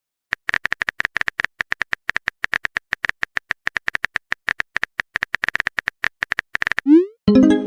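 Phone keyboard typing sound effect: rapid clicks, several a second, each with the same bright tick, for about six seconds. Near the end comes a quick rising swoosh and then a short pitched chime, a message-sent and message-received alert.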